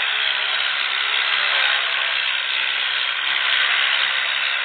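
Tractor engine running, a steady mechanical clatter and whir.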